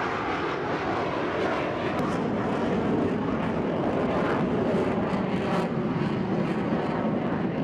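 Jet roar of Blue Angels F/A-18 fighters flying past, a loud steady rush of engine noise.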